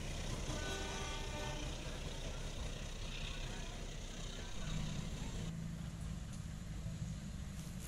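Rumble of a passenger train running away into the distance and fading, with a few faint high squeals early on. From about halfway a low steady hum is heard over quiet outdoor background.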